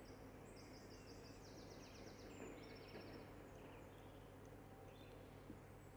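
Near silence with faint birdsong: quick series of short, high trilled notes in the first half, over a low steady background hiss.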